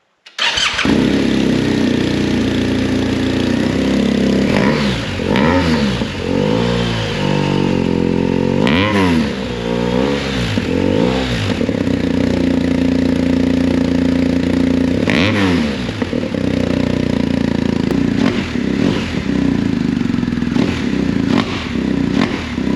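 BMW R 1250 GS Adventure's flat-twin engine starting about a third of a second in and running loud through a cat-deleted Akrapovic stainless full exhaust with slip-on muffler. It idles with several short throttle blips, the revs rising and falling.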